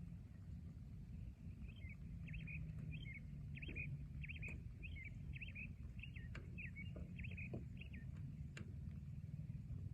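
A bird calling a quick run of short chirping notes, about two a second, for some six seconds, over a steady low background rumble with a few scattered soft ticks.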